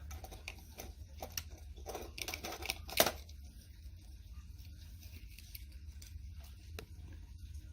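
Small clicks and light rattles of Hot Wheels toy cars and plastic track pieces being handled and set in place, with one sharper click about three seconds in.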